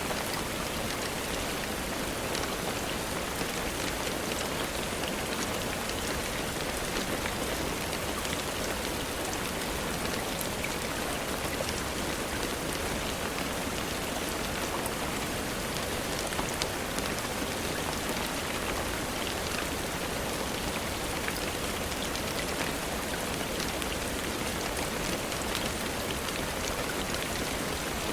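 Steady rainfall: an even hiss with scattered faint ticks, unchanging throughout.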